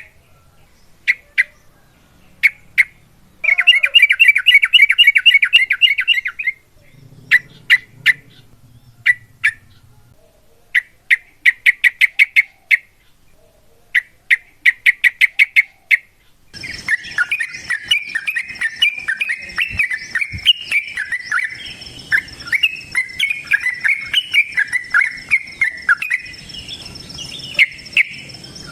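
Yellow-vented bulbul (trucuk) calling: sharp single notes and quick rattling runs, then from about sixteen seconds in a dense, continuous chattering song over a faint steady high tone.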